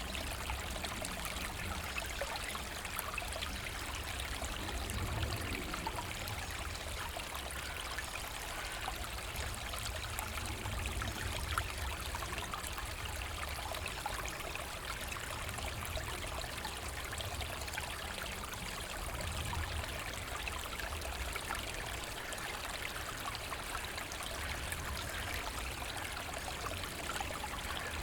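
Forest brook flowing and trickling over stones, a steady babble of running water with small swells in its low rush.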